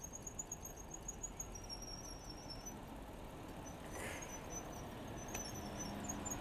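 Wind and road noise from riding a bicycle, a low even rush, with a faint high-pitched squeal that comes and goes in short broken notes. A brief rasp sounds about four seconds in.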